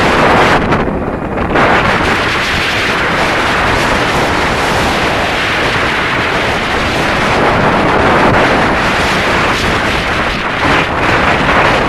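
Loud, steady wind noise rushing over the microphone, with no clear engine note standing out.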